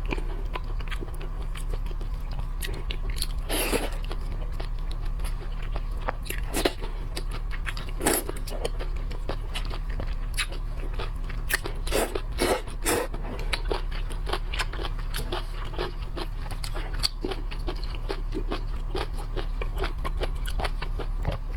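Close-up biting and chewing of shellfish, with irregular crunches and cracks scattered throughout. A steady low hum lies underneath.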